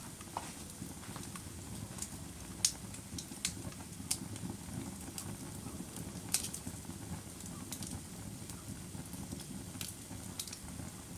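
Wood fire burning: a steady low rumble of flames with sharp, irregular crackles and pops every second or so.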